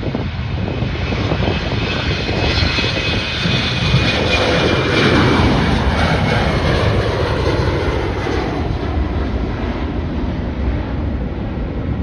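Airliner passing close on the runway or approach, its engine noise swelling to a peak about five seconds in and then easing off, with a high engine whine that drops in pitch as it goes by. Wind buffets the microphone underneath.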